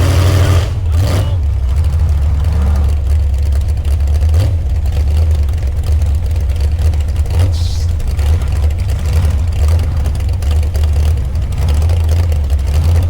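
A truck engine running steadily with a loud low drone.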